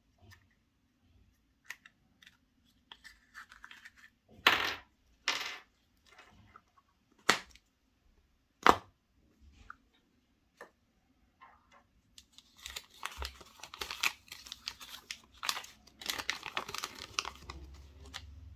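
Foil wrapper of a chocolate surprise egg being torn and crinkled by hand, with scattered small clicks and taps. There are two loud tears about four and five seconds in, then a long stretch of dense crinkling near the end.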